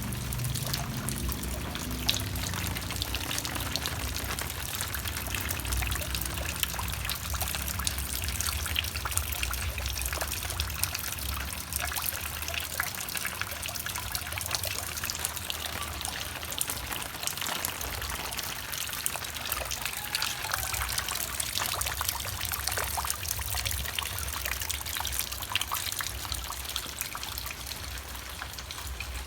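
Steady rain falling, a continuous patter of many small drop hits.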